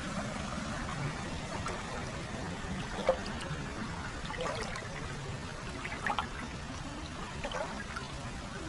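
Hot-spring water flowing steadily into a footbath, with a few small splashes and drips at intervals of a second or two.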